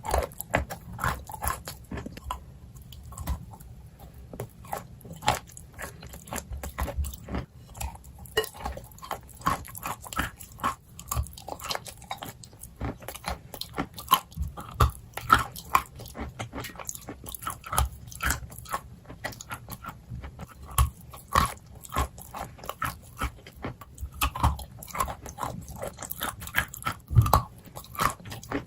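A person biting and chewing dry, crunchy clay pieces, close up: a dense run of sharp crunches, several a second.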